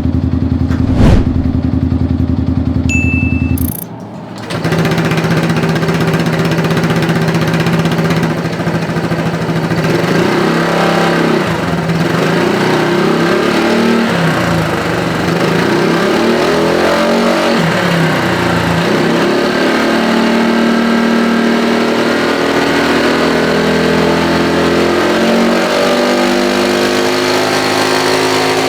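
Motorcycle engine running through an EvoX aftermarket exhaust with no DB killer, with a sharp thump about a second in. After a short break, a 110–160cc automatic scooter's engine runs through the EvoX ADB valved exhaust with the valve closed: it is revved up and down several times in the middle, then settles to a steady run.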